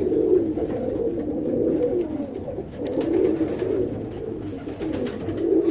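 Tippler pigeons cooing, several birds at once, their coos overlapping without a break.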